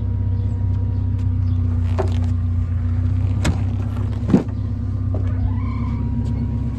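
1987 Alfa Romeo Spider Graduate's twin-cam four-cylinder engine idling steadily while it warms up after a cold start. Two short knocks come about three and a half and four and a half seconds in, the second one louder.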